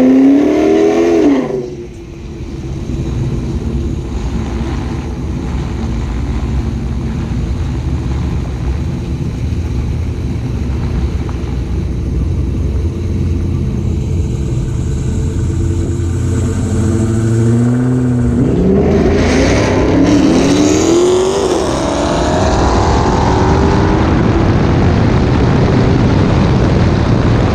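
A car's V8 engine revving and accelerating hard on a drag run, its pitch climbing and dropping back at each gear shift. It comes in twice: briefly at the start, then building steadily to a run of shifts in the second half.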